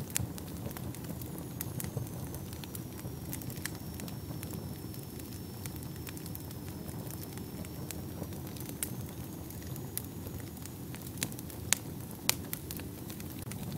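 Fire burning in a fireplace: a steady low rumble of flames with scattered sharp crackles and pops. Two louder pops come close together near the end.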